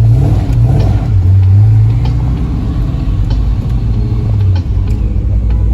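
Supercharged C6 Corvette V8 engine running at low speed, its note rising briefly at the start and again about a second in, then holding lower before easing off near the end.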